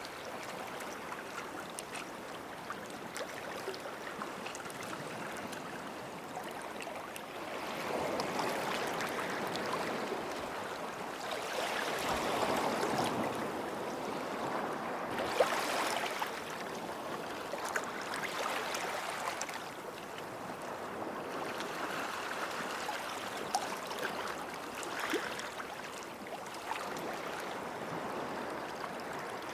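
Small sea waves washing in at the water's edge, swelling every few seconds and fizzing and trickling back over the sand and rocks.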